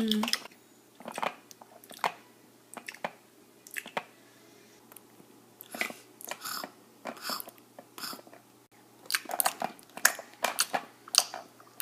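Chewing and munching mouth sounds in short, irregular bursts, made by a person voicing toy pets eating their meal. The bursts come thickest near the end.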